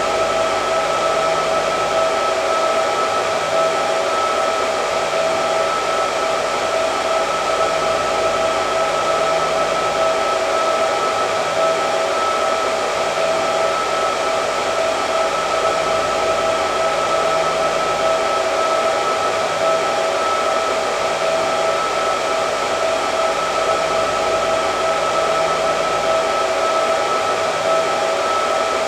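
Electric hair dryer running continuously: a steady rush of air with a constant whine in it, unchanging throughout.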